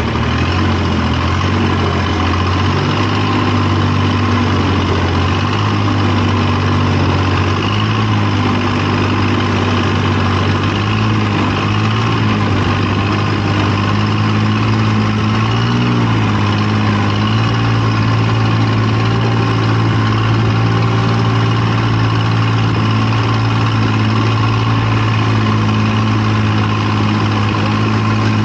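An engine running steadily, with a strong low hum and a slight waver in pitch about halfway through.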